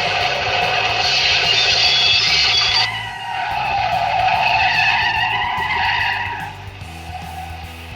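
Car tyres squealing in long skids: one squeal cuts off about three seconds in, a second, wavering squeal follows and fades out after about six and a half seconds, with background music underneath.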